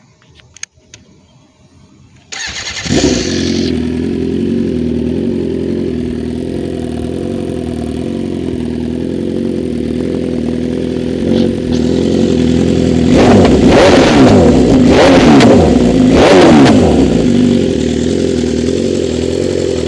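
BMW S1000RR's inline-four engine starting about two seconds in and settling into a steady idle. Near the middle it is revved several times in quick succession, each rev rising and falling, before dropping back to idle.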